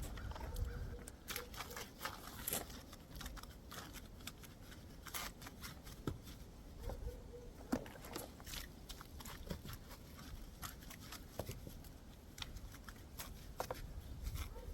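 Faint, irregular clicks and taps over a low background rumble.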